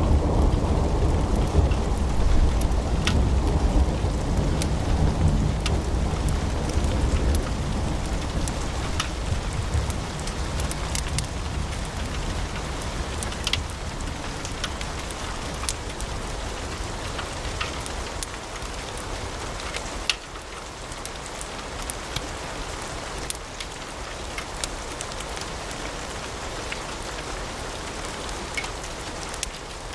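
Log fire in a fireplace crackling: scattered sharp pops and snaps of burning wood over a steady hiss. A low rumble fades away over the first ten seconds or so.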